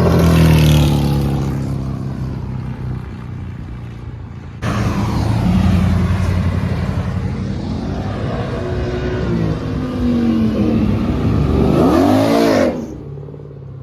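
Car engines accelerating hard as cars leave a car show. One loud engine fades as it pulls away, then another suddenly starts loud partway through, its note rising and falling with the revs, and cuts off sharply near the end.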